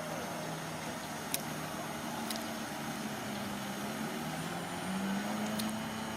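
Bulldozer's diesel engine running steadily, its pitch stepping up slightly about five seconds in, with a few faint clicks.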